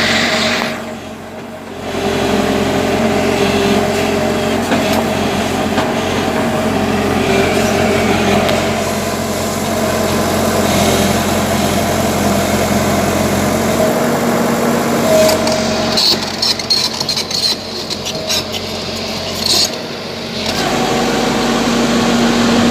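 Diesel engine of a JCB earthmoving machine running under load, its tone rising and falling. The level dips briefly about a second in, and a run of sharp clicks and knocks comes near the end.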